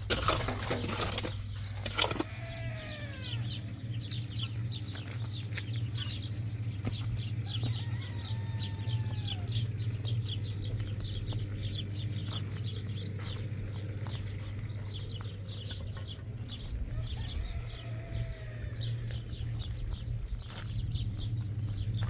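Birds chirping rapidly and continuously, with a few falling whistled calls, over a steady low hum. A cluster of sharp knocks comes in the first two seconds.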